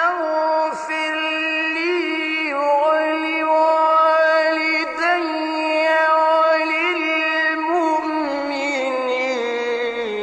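Male Quran reciter chanting in the melodic mujawwad style. He holds long, high, ornamented notes with vibrato and winding turns, with short pauses for breath between phrases.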